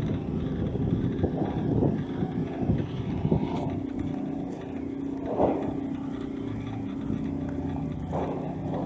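Street traffic: a vehicle engine running, with a steady hum through the second half.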